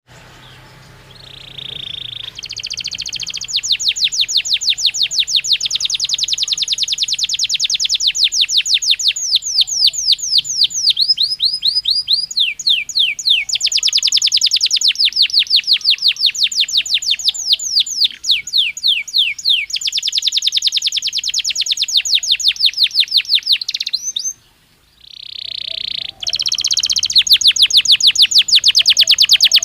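Belgian canary singing: long rolling trills of rapidly repeated high notes that change speed from phrase to phrase, some phrases made of quick downward sweeps, with one brief break near the end.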